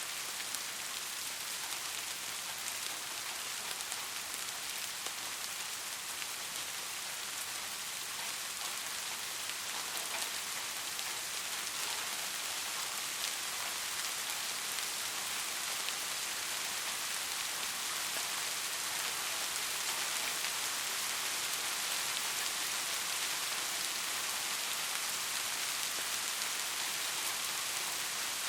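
Steady rain falling on foliage and the ground, a dense even hiss with scattered individual drop ticks.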